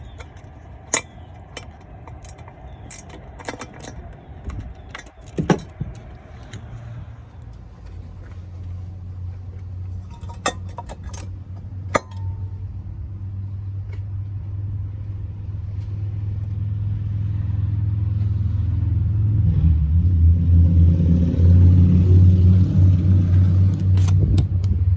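Metal clinks and clicks of hand tools and loose intake parts in the first half. Behind them a low vehicle engine rumble builds slowly and is loudest near the end.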